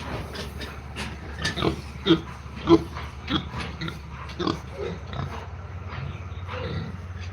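Pigs giving a string of short, repeated calls, the loudest about two and three seconds in, over a steady low hum.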